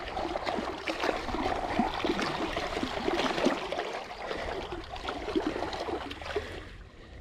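River current gurgling and lapping against the hull of a kayak drifting through moving water, a dense run of small splashy gurgles that eases off near the end.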